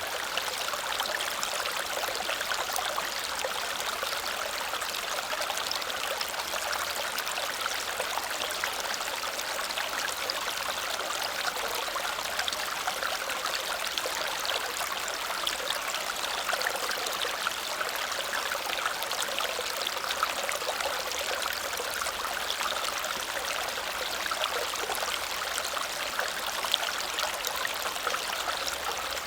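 Small waterfall splashing and cascading steadily over stones, a constant rushing with fine splatter.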